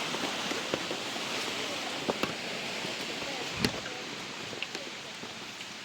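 Steady outdoor background hiss with scattered light clicks and knocks, the loudest knock about three and a half seconds in.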